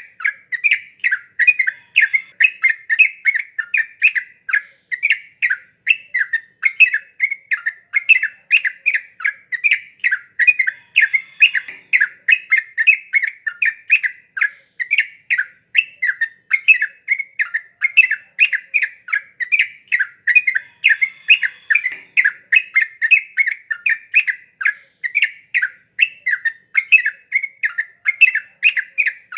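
Yellow-vented bulbul (trucukan) singing non-stop, a quick unbroken run of short bubbling chirps at several notes a second.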